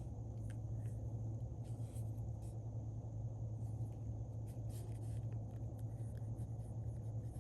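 Faint light ticks and rustles of paper being handled, over a steady low hum.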